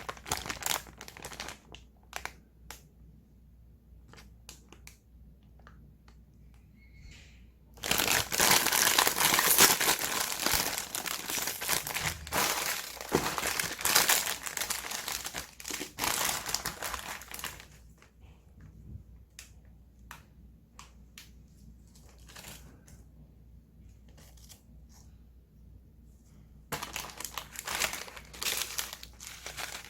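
Plastic instant-noodle packaging crinkling as it is handled: short crackles at first, a long loud stretch of crinkling about a third of the way in, then scattered crackles, and loud crinkling again near the end.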